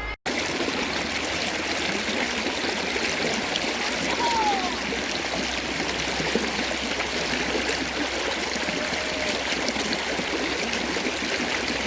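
Shallow creek water flowing steadily over rocks, an even babbling rush.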